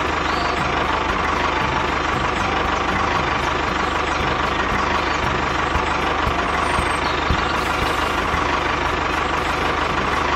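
A small motor running steadily with a constant whine, like an engine idling.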